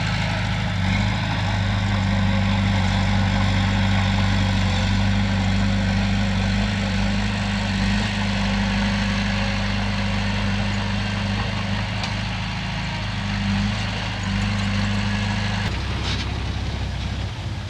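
Heavy diesel engine running steadily with a deep, even hum. About three-quarters of the way through, its note drops lower.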